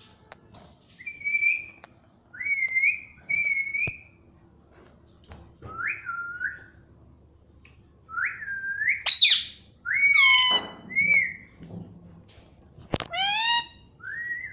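Ringneck parrot whistling: a string of short notes that each rise and then hold. Two louder, shrill squawks break in, about nine and thirteen seconds in.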